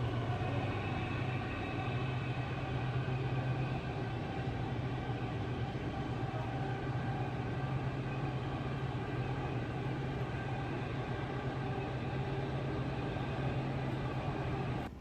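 Steady low vehicle rumble with a constant hum and no distinct events.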